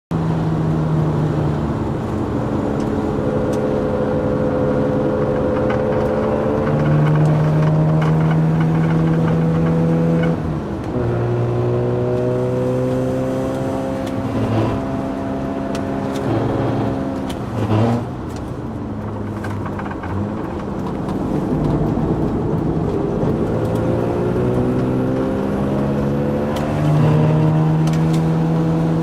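Mazda Roadster engine running hard, its pitch climbing, holding and dropping sharply about a third of the way in and again past halfway before climbing once more. The owner says the car is giving off violent vibration and an abnormal noise.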